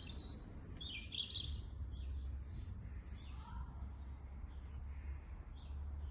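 Garden birds chirping and calling intermittently over a steady low rumble.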